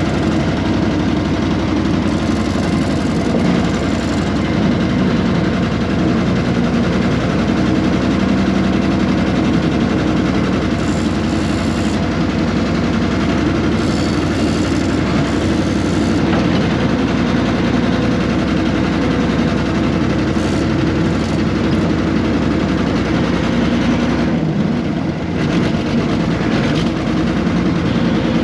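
1970s RM 80 excavator's air-cooled Deutz diesel engine running steadily under work, with a few brief higher-pitched metallic sounds from the machine along the way.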